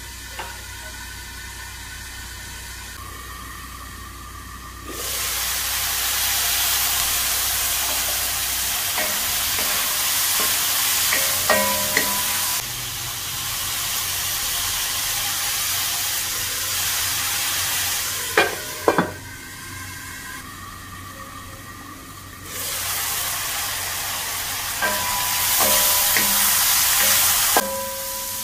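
Chicken breast pieces sizzling in a frying pan, muffled under a metal lid for the first few seconds, then loud once the pan is uncovered. A wooden spatula stirs the chicken, with a few sharp knocks against the pan. The sizzle drops away for a few seconds past the middle, then comes back loud.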